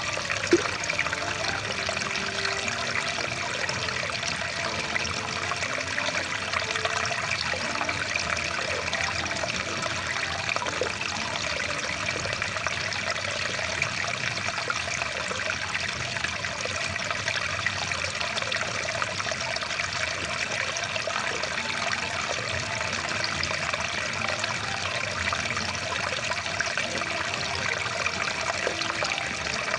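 Rushing water stream flowing steadily, an even, unbroken rush with no change in strength. A single short click sounds about half a second in.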